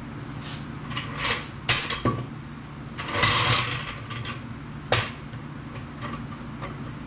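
Metal clinks, clanks and a scrape of tools and parts being handled during work on a truck door's hinge bolts, with two sharp metallic knocks.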